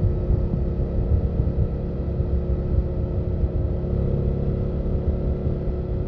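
BMW F800GS parallel-twin engine running at a steady pace while riding, its exhaust note holding even pitch under a low, uneven rumble.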